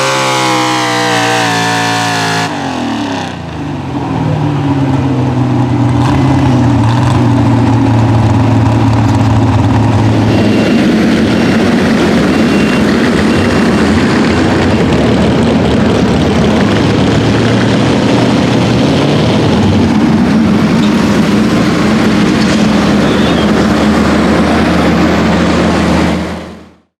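Pro Stock four-wheel-drive pulling truck's engine: revs fall over the first couple of seconds, then it runs loud and steady at high revs with a rough rasp, and the sound cuts off suddenly near the end.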